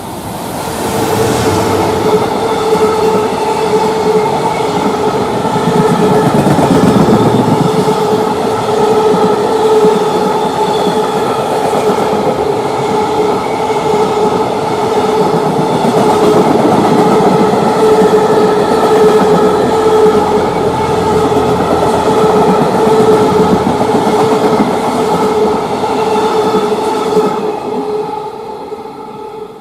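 Freight train rolling past close by, its wagons passing for nearly half a minute with a steady ringing tone over the rolling noise. The sound drops away near the end as the train goes by.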